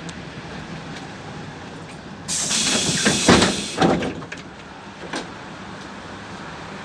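PAZ 32054 bus running at a low steady hum; about two seconds in, its pneumatic door mechanism lets out a sudden loud hiss of air lasting about a second and a half, with clunks as the door leaves move, and a single click a little later.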